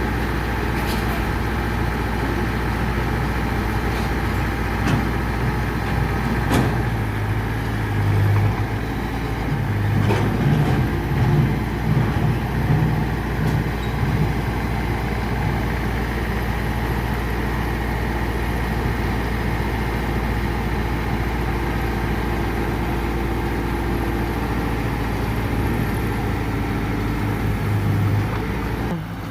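Diesel engine of heavy earthmoving machinery running, its note swelling and falling unevenly under load for a stretch near the middle, with a few sharp knocks.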